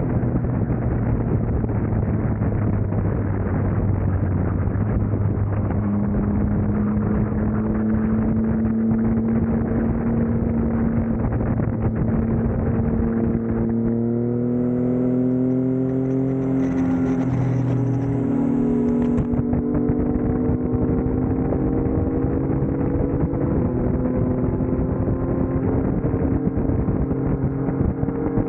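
Yamaha MT-09's inline-three engine running through a Yoshimura R11 exhaust while riding, under a constant wind rush. The note holds steady, then climbs and settles about halfway through as the revs change.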